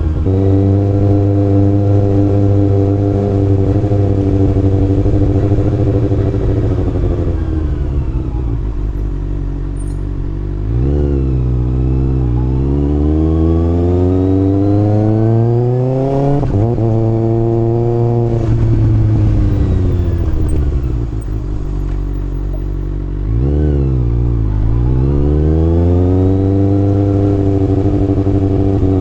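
Kawasaki ZX-6R's inline-four engine riding through gears: it holds a steady speed, then eases off. About a third of the way in it revs up with a rising pitch, and a quick drop marks an upshift before it climbs again. It then winds down slowly, gives a couple of quick blips of revs a little past two-thirds through, and settles back to steady running.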